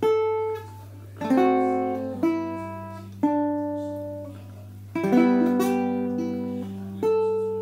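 Baritone ukulele tuned DGBE with a low D, played slowly as a tune: a plucked note or chord about every second or two, each left to ring and die away. A steady low hum sits underneath.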